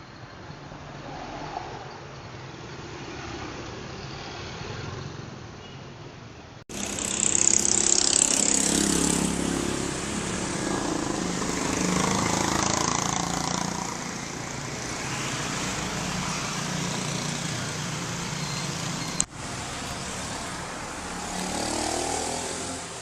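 Vehicle engines running and changing pitch across three spliced clips. There are abrupt cuts about seven and nineteen seconds in, and the sound is loudest just after the first cut.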